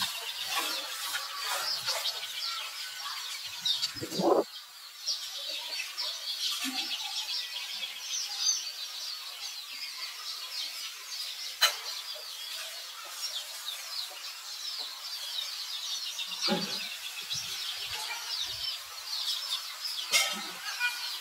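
Small birds chirping busily and continuously, many short high calls overlapping, with a sharp click and a couple of brief louder rustling sounds along the way.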